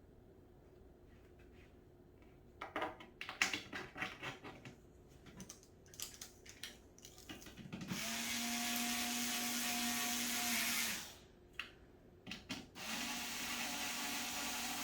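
A handful of knocks and clicks from handling the cat tower's wooden parts, then a cordless drill-driver running steadily twice, each run a few seconds long, driving screws into the frame.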